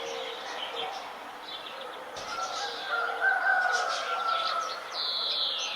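Several birds singing at once, with many short high chirps over lower held notes, and a clear call sweeping downward in pitch near the end.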